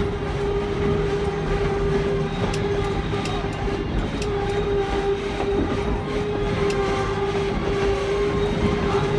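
Narrow-gauge train coaches rolling along the track, a steady rumble with a constant droning tone, and a few sharp clicks of wheels over rail joints.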